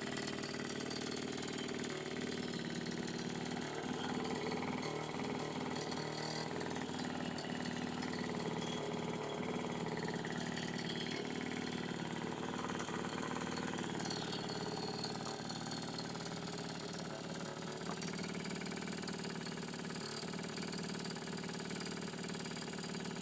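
1950 Moskva M1A motorcycle's small single-cylinder two-stroke engine idling steadily, on its first run after restoration.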